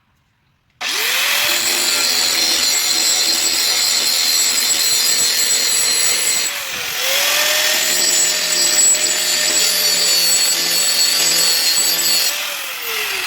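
Angle grinder switched on and grinding the steel edge of an axe head: a steady motor whine under a loud grinding hiss. Its speed dips briefly halfway through and recovers, and near the end the grinding stops and the motor winds down with a falling whine.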